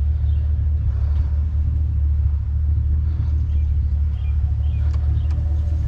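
Pickup truck's engine running: a steady low rumble with a few faint clicks.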